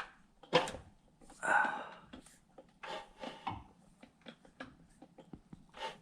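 Intermittent scraping and clicking as an HMMWV M998A1's engine is turned over by hand: the torque converter cover is rubbing against the starter ring gear because the cover is not seated against the oil pan.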